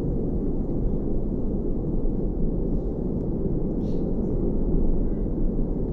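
Strong wind buffeting the microphone: a steady, loud, low rumble with no let-up.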